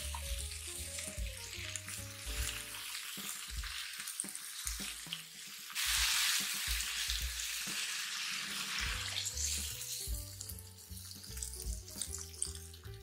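Diced vegetables frying in olive oil in a pot, sizzling steadily while being stirred with a silicone spatula, with small clicks of the spatula against the pot; the sizzle swells louder about six seconds in and eases back a few seconds later. Background music with a bass line plays underneath.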